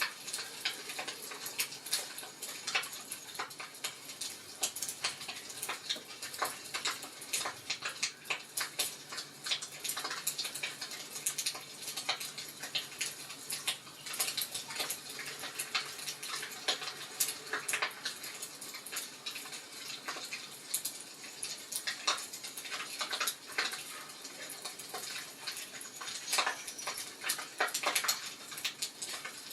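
Wood fire crackling in a fireplace, with dense, irregular snaps and pops over a soft hiss.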